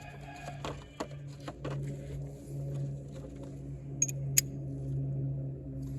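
Hand tools being handled and set down: scattered light clicks and knocks, with two sharp metallic clinks about four seconds in, over a steady low hum.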